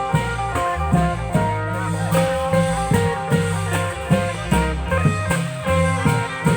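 Klong yao long-drum band music: a steady beat of drum and cymbal hits, about two a second, under a bass line and a plucked-string melody.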